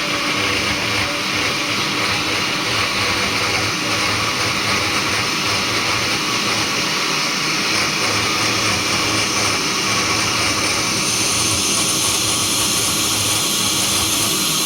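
Electric blender running steadily, blending a small batch of hot pepper sauce made with garlic, vinegar, water, salt and green mango. Its high hiss grows louder about eleven seconds in.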